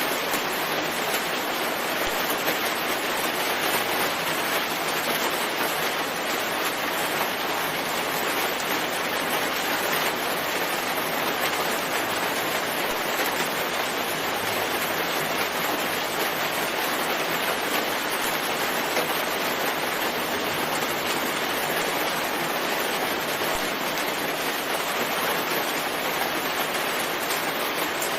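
Steady, even rainfall with no distinct drops or crackles standing out.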